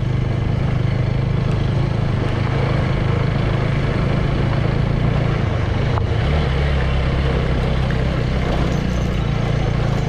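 Motorbike engine running steadily under way, over a haze of road and wind noise. Its note drops and changes about six seconds in, as with a change of throttle or gear.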